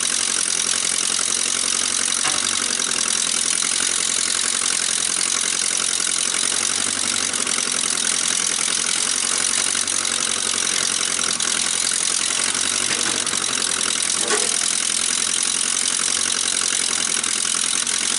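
1956 Case 310 tractor's engine running steadily at an even speed.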